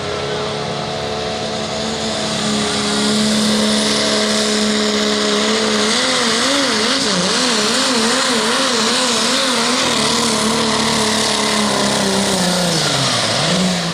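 Diesel pickup truck engine running flat out as it pulls the sled, with a steady high rush over it. About six seconds in, the engine pitch starts wavering rapidly up and down for several seconds, then it falls away near the end.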